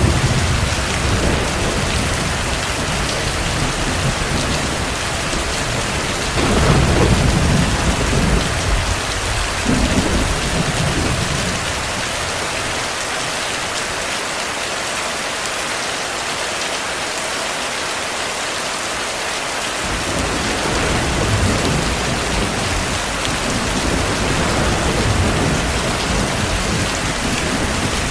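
Heavy rain falling steadily, with low rolls of distant thunder, strongest about seven seconds in. The rumble dies away for several seconds midway and returns near the end.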